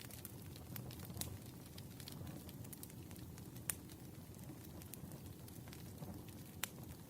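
Campfire crackling: a low, steady rumble of burning wood with scattered sharp pops and snaps. The loudest snaps come about one, three and a half and six and a half seconds in.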